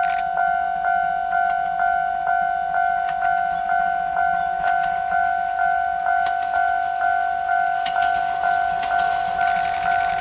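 Railway level-crossing warning bell ringing, one ringing tone struck about twice a second, each strike fading before the next. Near the end the noise of an approaching train rises under it.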